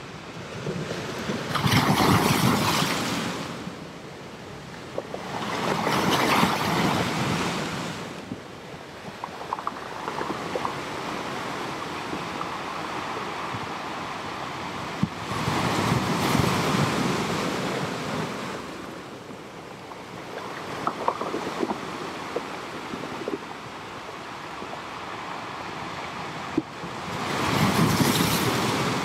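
Ocean surf sound track: waves breaking and washing in, four large swells that rise and fall slowly over a steady wash, with a few faint clicks between them.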